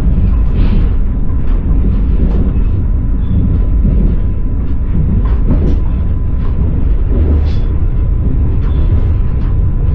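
Passenger train carriage running along the track, heard from inside: a steady low rumble of the wheels with scattered clacks and knocks.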